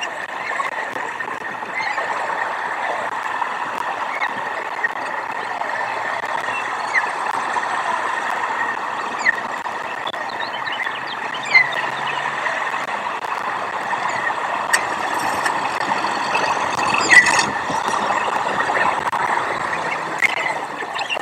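Steady outdoor background noise, like distant traffic, with scattered short bird chirps and a brief squeal about 17 seconds in.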